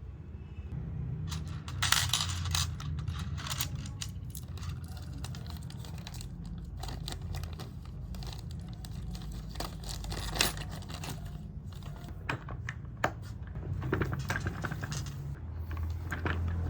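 Small hard objects being handled and set down: an irregular run of clicks, taps and light rustles, with a steady low hum underneath.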